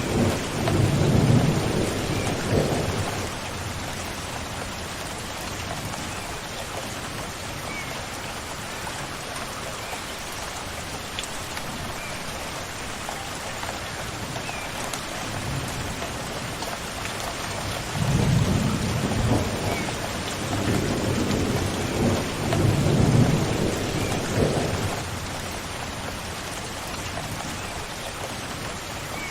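Steady rain falling, with thunder rumbling twice: through the first few seconds, then again for about seven seconds past the middle.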